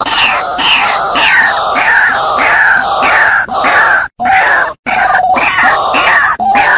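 White-breasted waterhen (ruak-ruak) calling loudly: a run of harsh repeated notes that fall in pitch, under two a second. About four seconds in, they change to shorter, lower notes broken by brief pauses.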